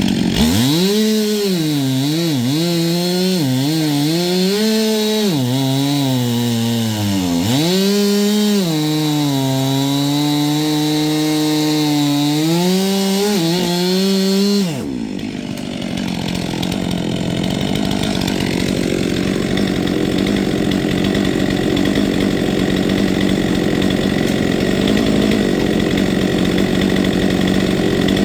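Stihl chainsaw cutting wood, its engine note rising and dipping as the chain bites and frees in the cut. About halfway through the engine pitch drops away and a steady, loud rushing noise carries on to the end.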